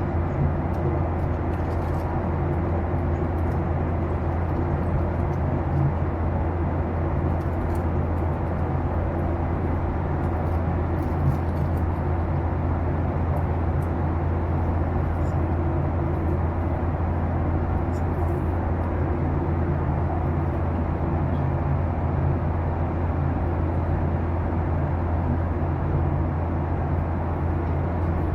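Boeing 737-800 engines heard from inside the passenger cabin: a steady, even low drone with a hum underneath, and a few faint ticks.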